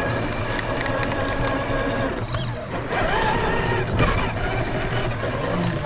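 Electric motor and geared drivetrain of a 1/10-scale RC crawler truck whining as it crawls over the trail, the pitch shifting with the throttle.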